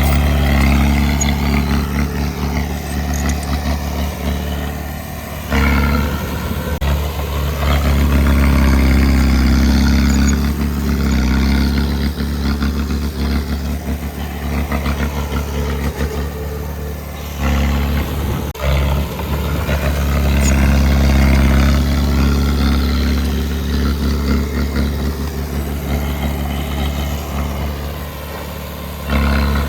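Heavy diesel engine of earthmoving machinery running steadily with a low, even drone. The sound changes abruptly a few times.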